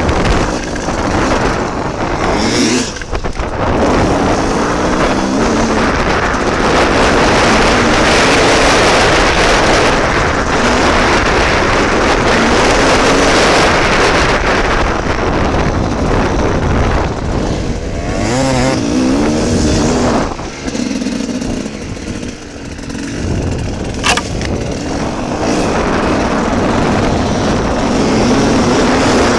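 Dirt bike engine revving up and down as it is ridden off-road, heard from on the bike with heavy wind and riding noise over it. The revs fall off briefly around twenty seconds in, and there is one sharp click a few seconds later.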